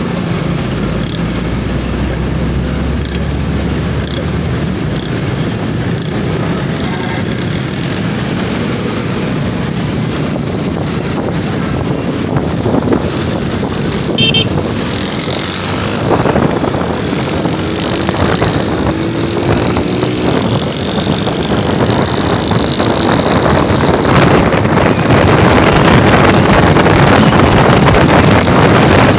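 Motorcycle riding in city traffic: steady engine and road noise, growing louder over the last several seconds.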